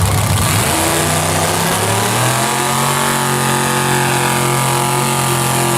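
Off-road vehicle engine revving up over a second or so and then held steady at high revs.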